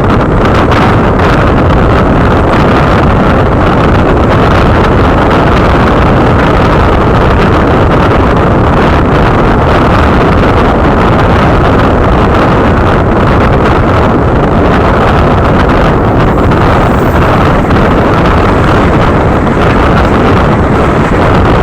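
Loud, steady rushing noise of a moving train, with wind buffeting the microphone.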